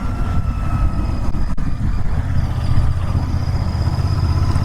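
Royal Enfield Interceptor 650's parallel-twin engine and exhaust running steadily while cruising, a constant low rumble with a faint steady whine above it.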